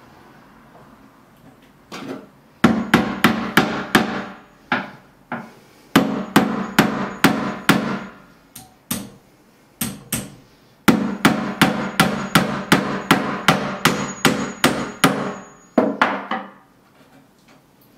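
Hammer blows struck in quick runs of about four a second, three runs with short pauses between them.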